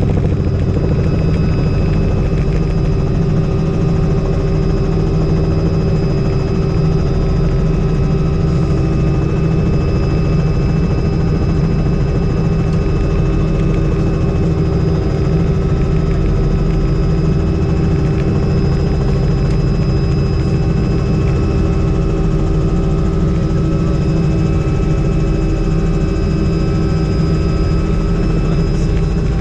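Helicopter in flight: steady rotor and engine noise, unchanging throughout, with a constant high tone over the low drone.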